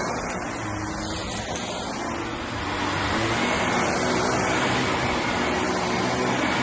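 Vacuum cleaner running steadily on carpet, its motor giving a steady high whine over a constant rush of suction.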